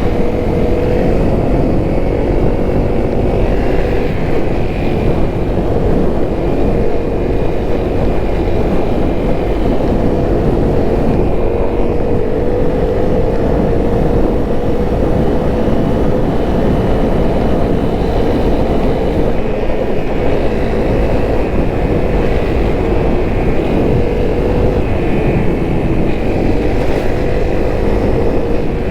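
Honda CRF250L's single-cylinder four-stroke engine running steadily under way, its note holding at a fairly even pitch and rising slowly near the end.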